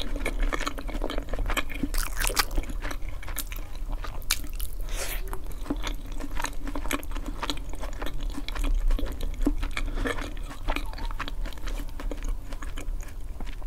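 Close-miked chewing and mouth sounds of someone eating oven-baked eggplant slices topped with cheese and garlic, with many short clicks.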